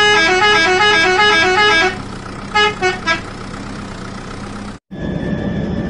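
Electronic toy-vehicle horn tune: a quick run of alternating two-note beeps for about two seconds, then three short beeps, over a steady low electronic hum. Near the end the sound cuts out briefly and a different steady whirr with a high whine begins.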